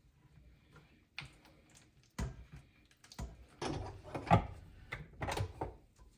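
Irregular knocks and clatter of kitchen things being handled and set down on a bench, a dozen or so with short gaps, the loudest a little past four seconds in.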